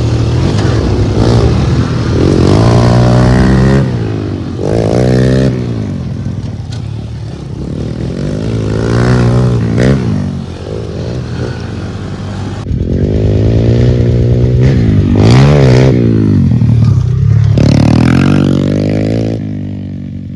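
Pit bike engine revving up and down over and over as it is ridden, the pitch climbing and falling every second or two between throttle-offs.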